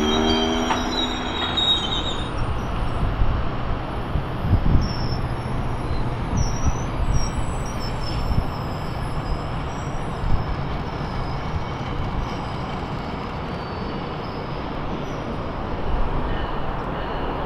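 GO Transit bilevel commuter train rolling past: a wheel squeal fades out in the first couple of seconds, then a steady rumble of steel wheels on the rails with a few knocks from the rail joints, and a faint squeal again near the end.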